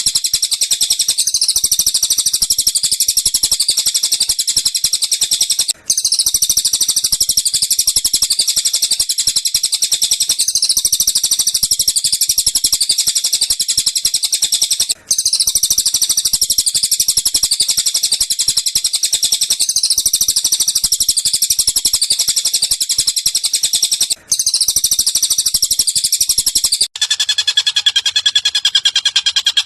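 Recorded birdsong played as a masteran training track: a dense, rapid, high-pitched chattering call repeated as a loop about every nine seconds, with a brief break between repeats. Near the end it switches to a different, lower and more tonal call.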